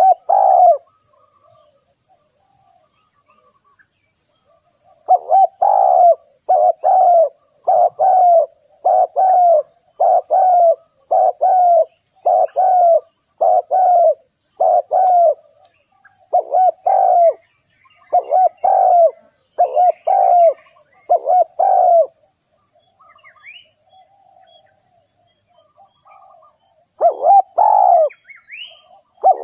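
Spotted dove cooing: a run of short, mellow coo phrases, roughly one a second. They pause for several seconds and start again near the end, with a few faint chirps from other birds in the gap. This is the call used as a decoy to lure wild spotted doves.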